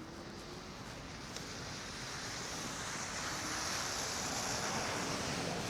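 Steady rushing hiss of an electric scooter ridden slowly through snow, tyres on snow mixed with wind on the microphone, growing louder over the second half.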